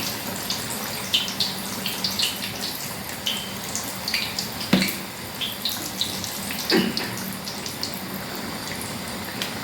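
Puff-puff dough balls deep-frying in hot oil: a steady sizzle full of small crackling pops, with two knocks of a spoon turning them in the pan, about the middle and two seconds later.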